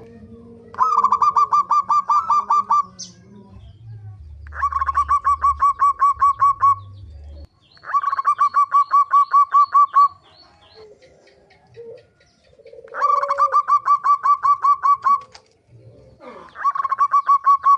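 Zebra dove (perkutut) cooing: bouts of rapid, evenly pulsed coo notes, each about two and a half seconds long. Four full bouts come with short pauses between them, and a fifth begins near the end.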